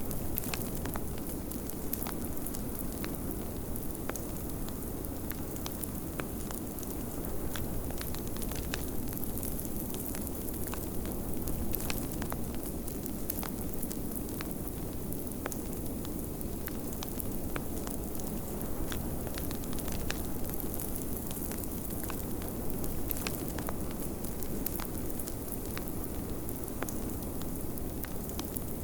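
Fireplace crackling with many small irregular pops, over the steady low rush of blizzard wind.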